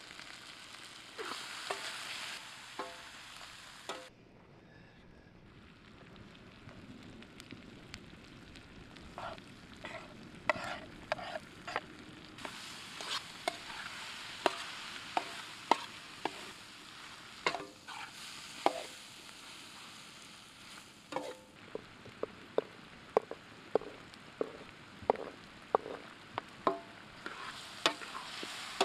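Meat, duck pieces and vegetables sizzling in a large shallow metal pan as they are stirred and tossed, with a utensil clinking and scraping against the pan many times at irregular intervals.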